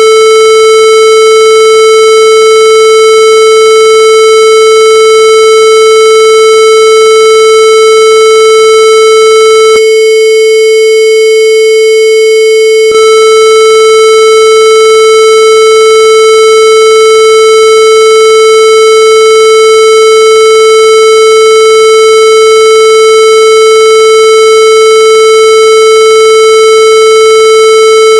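Loud, harsh electronic tone held at one steady pitch, rich in overtones like a buzzer. About ten seconds in its timbre changes for roughly three seconds, then goes back, with no change in pitch.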